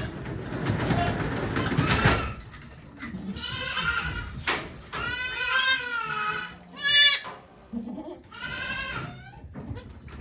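Goats bleating three times, each a wavering call, the middle one the longest. A short sharp noise comes between the second and third calls, and a rustling noise fills the first two seconds.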